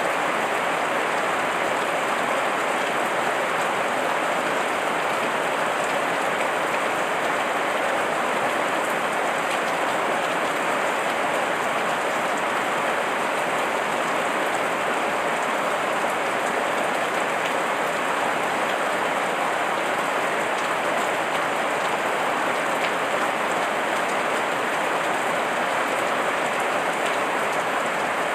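Heavy rain falling steadily, an even hiss of many drops on surfaces.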